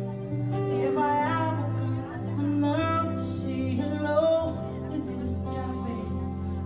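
Live band playing a slow pop love song: a sung melody over keyboard, bass and guitar, with light percussion hits coming in about five seconds in.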